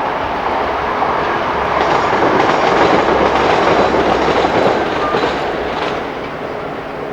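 Freight train hauled by a Class 60 diesel locomotive passing, wagon wheels clattering over the rail joints; the noise swells about two seconds in and eases off near the end.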